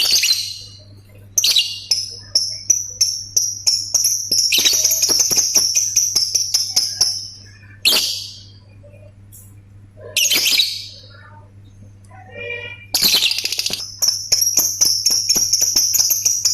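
Lovebird singing: short sharp calls, runs of rapid ticking clicks (the 'ngetik' sound), and long high, sustained trills (the 'ngekek'), one lasting about three seconds near the middle and another starting about a second before the end.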